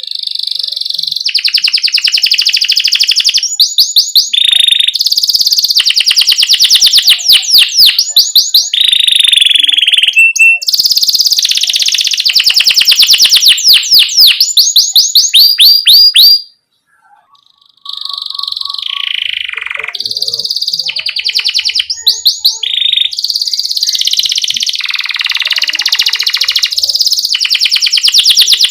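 Domestic canary singing a long, loud song of fast rolling trills and chirps, broken by a pause of about a second near the middle.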